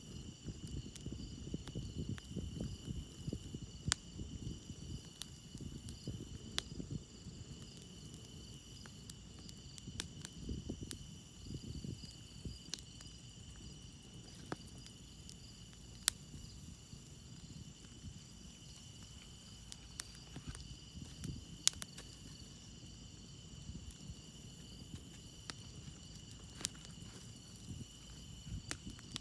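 Campfire crackling, with sharp pops every second or two, over a steady chorus of crickets chirring. A low, uneven rumbling noise runs underneath.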